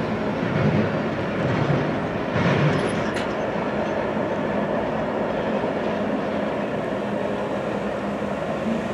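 Double-stack intermodal container cars rolling along the rails with a steady rumble and wheel noise. A brief click comes about three seconds in.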